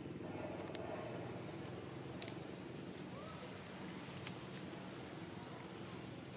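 A bird repeating a short, high rising chirp roughly once a second, starting about two seconds in, over a steady low outdoor background hum.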